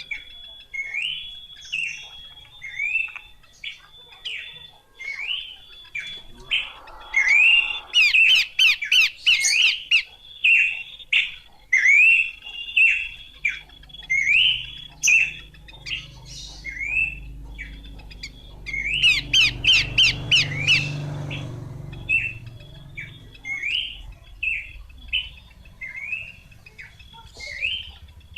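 Abbott's babbler (pelanduk semak) calling: a quick run of short chirping notes, each rising and falling, broken by bursts of rapid chattering about eight and twenty seconds in. A faint steady high tone runs underneath.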